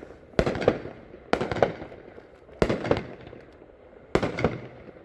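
A 40-shot consumer firework cake firing shot by shot: four loud reports about a second and a half apart, each a quick double bang.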